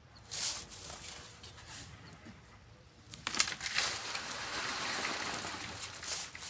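Sand being shovelled and sifted: a short scrape about half a second in, then about three seconds of hissing, pouring sand with a few sharp clicks of grit.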